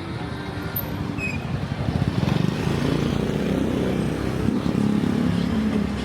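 Street traffic, with a motor vehicle's engine running close by and getting louder about two seconds in.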